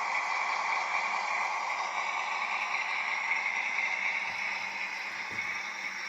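Model locomotive running on its track: a steady whir from its small electric motor and gears and the rolling of its wheels, with two faint low knocks near the end.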